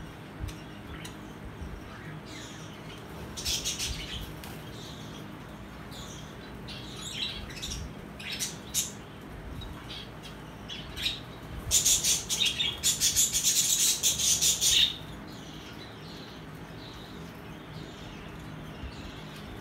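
Pet lovebirds chirping in short, scattered high calls, then a loud run of rapid chirps lasting about three seconds, starting around twelve seconds in. A steady low hum runs underneath.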